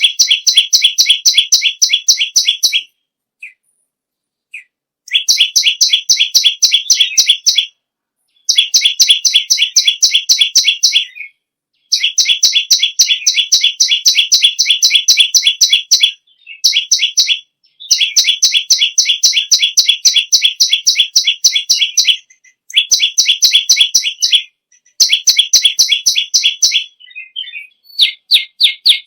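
Perenjak lumut songbird singing loudly: fast, even trills of sharp, high notes, about nine a second, in bursts of a few seconds broken by short pauses.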